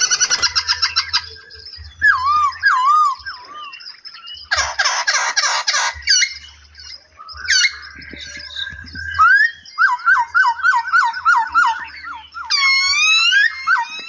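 Several aviary songbirds singing and calling in turn: whistled, warbling phrases and quick runs of repeated slurred notes, with a short burst of harsh chatter about five seconds in.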